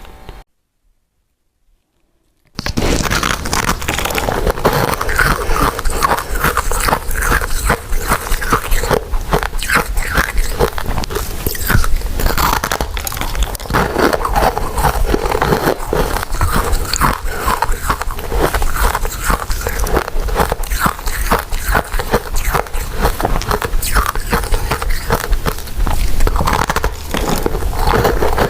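Close-miked chewing and biting of soft, sticky glutinous rice cakes and mochi: a dense, unbroken run of small mouth clicks. It starts after about two seconds of dead silence.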